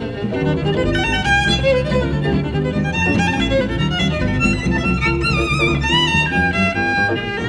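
Jazz violin playing a melodic line with vibrato, backed by guitar and double bass in a live performance.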